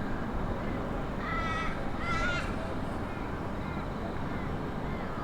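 A crow cawing: two drawn-out caws about a second apart, then a few fainter calls, over steady outdoor background noise.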